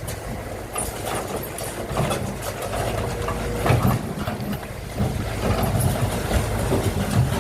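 A heavy engine running steadily, with a few knocks over it.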